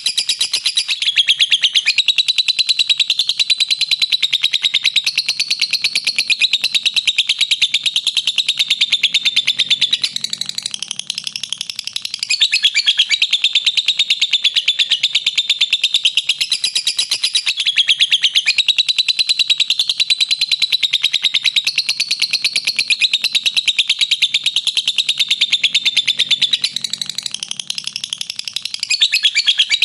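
Lovebird giving a long 'ngekek' song: a rapid, high-pitched chattering trill of tightly repeated notes, going on almost without a break, easing briefly about ten seconds in and again near the end.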